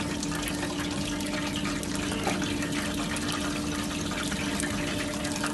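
Battered halloumi cheese frying in a deep fryer: a steady hiss of bubbling oil over a constant low hum.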